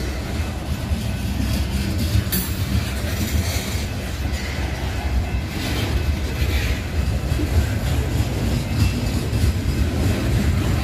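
Freight train of hopper cars rolling past: a steady rumble of steel wheels on rail, with irregular clicks and clatter from the cars and wheels going by.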